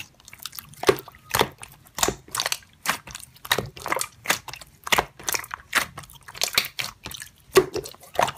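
Slime being pressed and worked by hand, giving irregular sticky pops and crunchy clicks, two or three a second.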